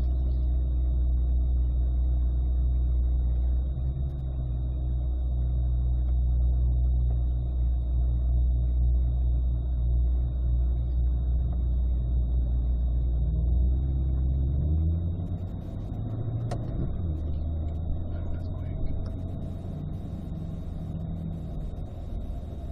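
Corvette 6.2-litre V8 running at low revs at a crawl, heard from inside the cabin. About two-thirds of the way through it changes up a gear, and the note shifts and gets a little quieter.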